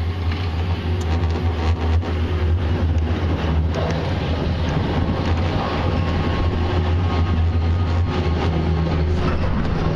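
Steady road and engine rumble inside a moving car, a constant low drone with tyre and wind noise over it.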